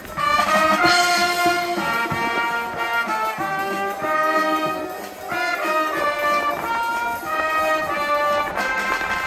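A school wind band playing a melody outdoors, with trumpets and trombones carrying the tune in a run of held notes.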